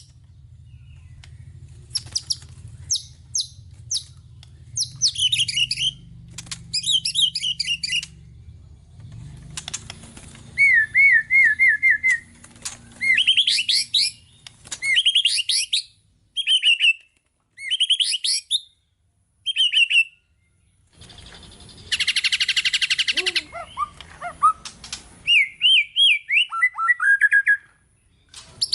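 White-rumped shama (murai batu) singing a long, varied song of clear whistled phrases, fast trills and sweeping notes, broken by short pauses, with a harsh buzzy burst about two-thirds of the way through.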